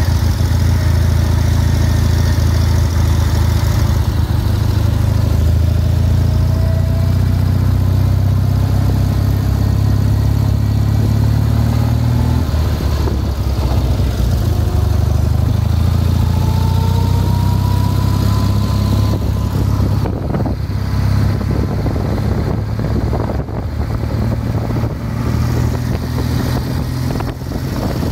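Motorcycle-and-sidecar outfit's engine running at road speed, a steady deep drone. In the last third the note becomes rougher and more uneven.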